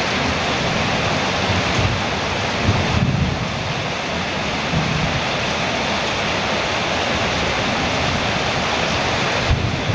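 Heavy rain falling steadily on a metal roof, a dense even hiss, with low rumbles swelling a few times, around a third of the way in and again near the end.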